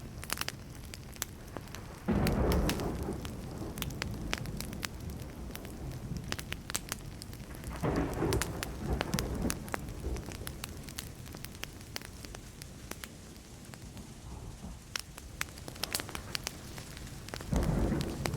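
Wood fire crackling with many sharp pops, while distant thunder rumbles three times: a sudden low roll about two seconds in, another about eight seconds in, and a third near the end.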